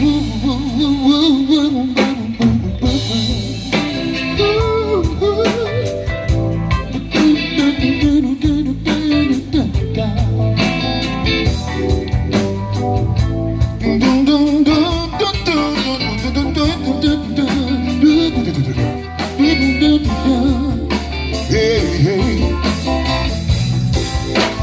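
A live blues band playing, with a wavering, bending lead line over bass and drums.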